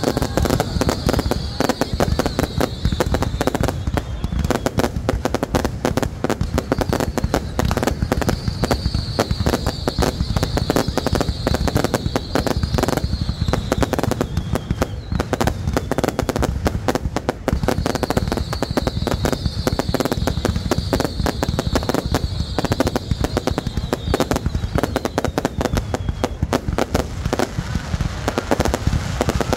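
Fireworks display going off continuously: a dense, unbroken barrage of rapid crackling and popping.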